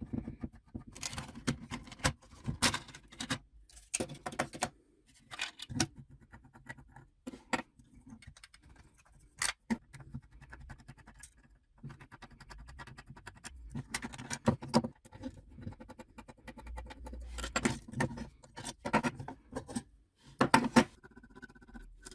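Irregular clinks, scrapes and knocks of hand tools and metal parts being handled, coming in clusters with short quieter gaps.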